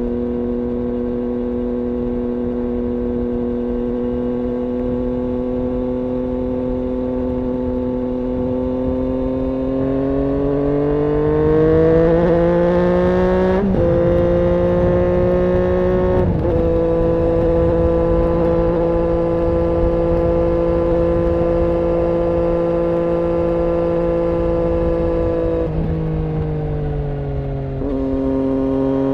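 2006 Triumph Daytona 675's inline-three engine running through an IXIL aftermarket exhaust, held at a steady speed. About ten seconds in the revs climb over a few seconds and hold higher, then fall back near the end.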